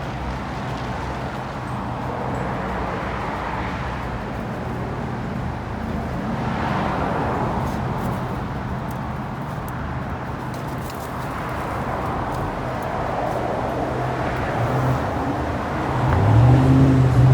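Motor vehicle noise: a steady engine hum under road noise that swells and fades every few seconds, like traffic going by. Near the end the engine hum grows much louder.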